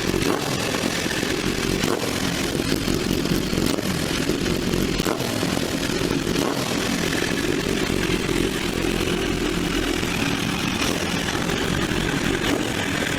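Exhaust note of a 2012 Kawasaki ZX-10R's inline-four engine running steadily at a constant pitch, with no revving.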